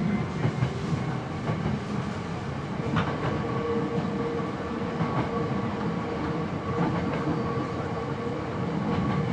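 Hankyu 7300-series electric train heard from inside the car, running at speed with a steady rumble and occasional clicks of the wheels over rail joints. A steady whine sets in about three seconds in.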